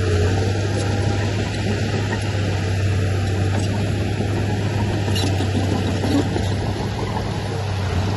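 Heavy diesel engine of an earthmoving machine running steadily with a constant low hum.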